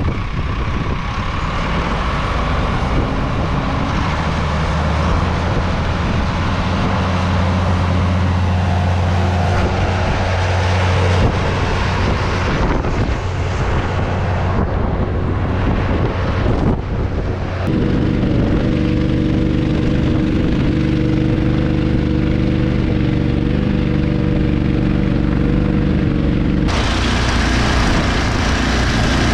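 A vehicle engine running steadily under a constant rush of wind and road noise. The engine note changes about two thirds of the way in, and the hiss grows brighter near the end.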